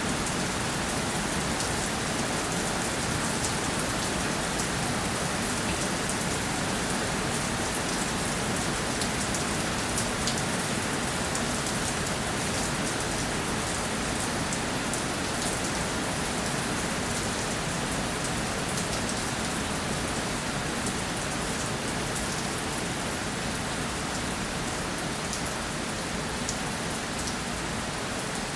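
Steady rainfall: a constant wash of rain with many small drops pattering on a surface.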